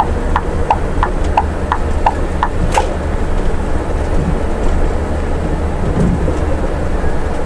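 Scania bus engine running steadily in fourth gear on a downhill, heard from the driver's cab. A turn-signal relay clicks about three times a second for the first three seconds, then stops.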